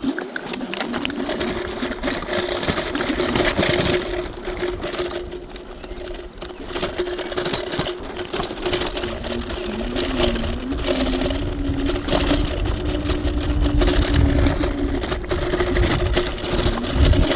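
TRBK-M2 electric hyperscooter under way off-road: a steady electric motor whine, with a second whine that wavers up and down in pitch in the middle. Under it are a deep wind rumble on the helmet microphone and frequent small rattles and knocks from the rough trail.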